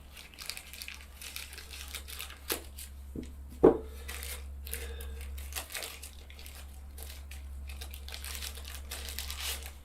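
Packaging being crinkled, rustled and torn open by hand as parts are unwrapped, with one sharp knock a little past three and a half seconds in.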